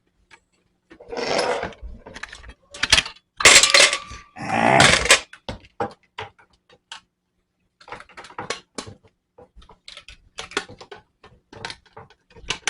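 Plastic parts of a pet water fountain being handled and fitted together: a few loud scrapes and rubs in the first five seconds, then a run of small clicks and knocks as the pieces are lined up and pushed into place.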